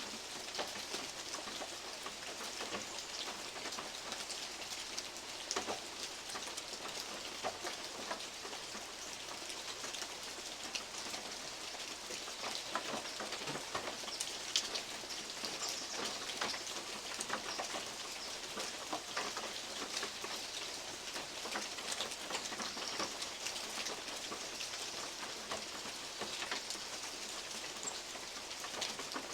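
Steady rain with big drops falling from oak leaves and tapping irregularly on a metal roof.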